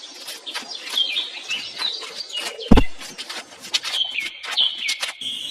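Short bird chirps over a run of light clicks and taps, with one loud thump about halfway through.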